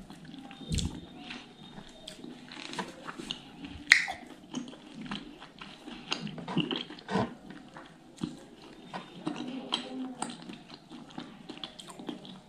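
Wet chewing and lip smacks of a person eating fatty smoked pork curry with rice, in many short irregular clicks, with one sharp click about four seconds in.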